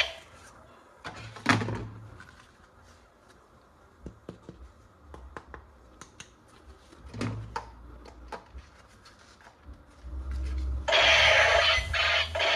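Light clicks and knocks of plastic toy parts being handled, with two sharper clicks. Near the end a loud continuous sound starts suddenly and keeps going.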